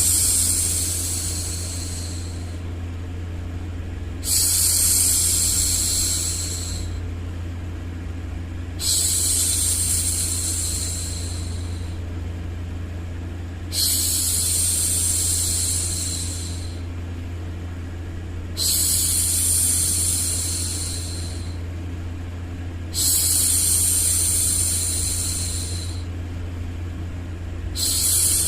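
A woman's voice hushing "shhh" over and over, each shush starting sharply and fading over a couple of seconds, about every four to five seconds. Underneath runs a steady low hum of background noise.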